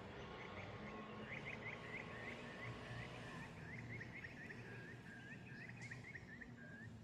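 A bird calling faintly: a long, even run of quick chirps, about three a second, slowly dropping in pitch before it stops near the end.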